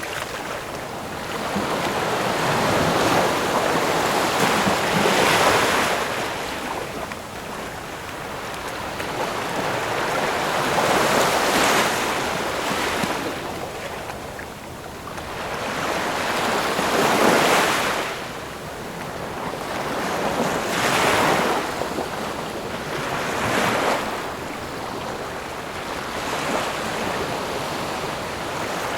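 Ocean waves. The surf swells and falls away in surges every few seconds, with the loudest near the middle and again around three-quarters of the way through.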